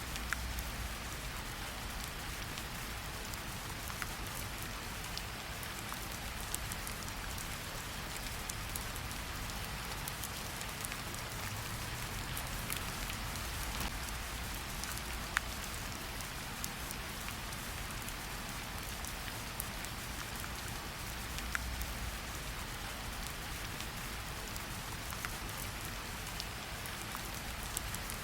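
Steady rain falling in a forest, a continuous hiss with scattered individual drops ticking sharply here and there.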